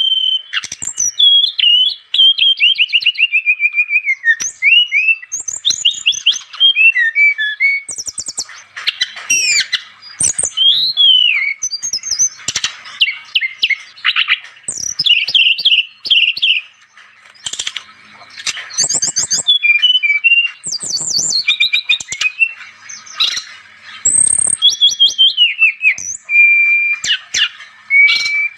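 Brown-chested jungle flycatcher (sikatan rimba dada coklat) singing continuously. Its song comes in rapid, varied phrases of sharp chirps and downward-stepping runs of notes, with short held whistles and brief pauses between phrases.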